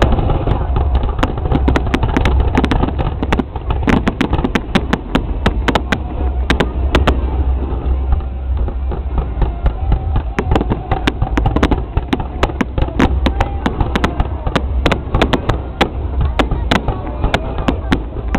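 Fireworks going off in a rapid, irregular string of sharp pops and bangs, over crowd chatter and a steady low rumble.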